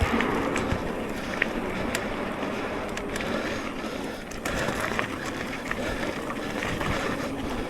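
Electric mountain bike being ridden along a dirt trail: a steady rush of tyre and trail noise with scattered clicks and knocks from the bike rattling over the ground.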